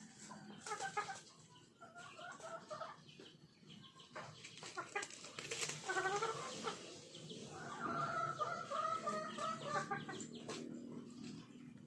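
Chickens clucking in a series of short calls, with a longer drawn-out call from about eight seconds in.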